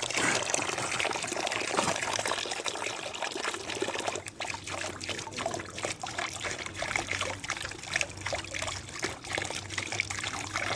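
Water running from a garden hose into a dog's water container, a steady splashing trickle that turns more uneven and spattery about four seconds in.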